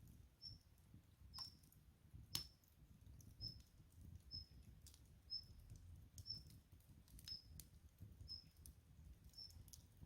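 Faint crackling of a burning wood fire, with scattered sharp pops, one louder about two seconds in. A faint, short, high chirp repeats about once a second throughout.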